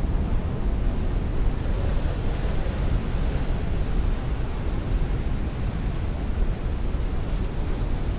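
Heavy rain beating against a window with strong wind rushing, a constant dense hiss over a deep low rumble.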